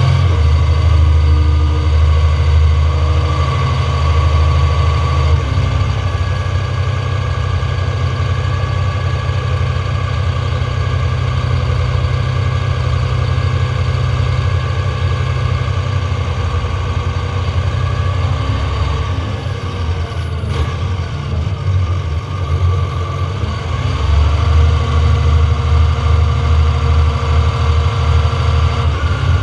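John Deere 7230R tractor's six-cylinder diesel, with an open-pipe exhaust, working under load as it pushes corn silage with a front blade. The engine runs steadily throughout; about twenty seconds in its pitch drops, then climbs back a few seconds later.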